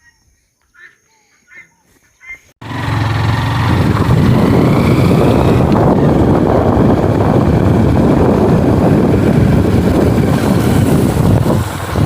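Strong storm wind buffeting the microphone, a loud, rumbling noise that cuts in suddenly about two and a half seconds in and keeps up, after a few seconds of faint, quiet sound.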